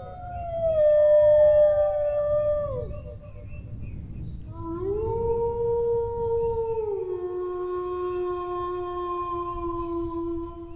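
Dog howling: a long held howl that slides down and breaks off about three seconds in, then a lower howl that rises, steps down a little about seven seconds in and holds to the end, over a steady low rumble.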